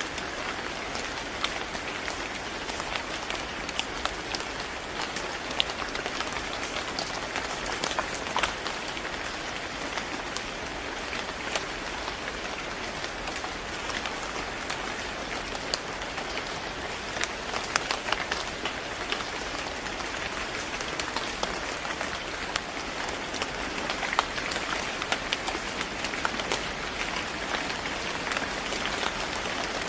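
Steady rain falling, an even hiss dotted with many sharp drop ticks.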